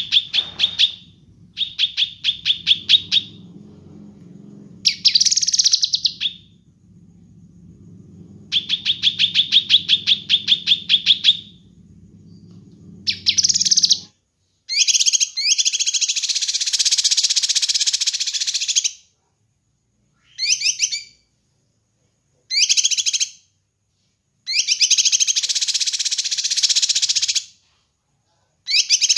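Kinoi bird calling in quick trains of sharp, evenly repeated notes, then in longer, harsher raspy bursts separated by short pauses. A faint low hum sits under the first half and stops about halfway through.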